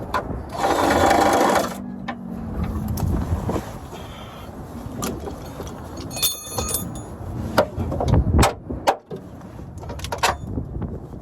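Mechanic's tool work on metal while a 4L60E transmission is taken out: a short loud mechanical whirr about half a second in, then scattered clicks and knocks of wrenches and metal parts, with ringing metallic clinks around six seconds. Wind rumbles on the microphone.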